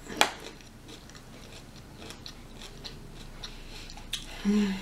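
Close-miked chewing of broccoli, with a sharp crunching bite just after the start and small wet clicks of chewing after it. Near the end there is a short hummed "mm".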